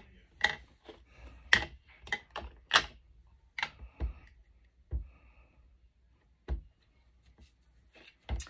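Irregular sharp taps and clicks of small crafting pieces being handled and set down on a tabletop, about ten in all, closer together in the first half and sparser later.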